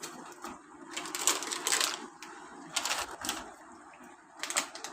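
Plastic food packet crinkling and rustling in bursts as it is pressed and handled.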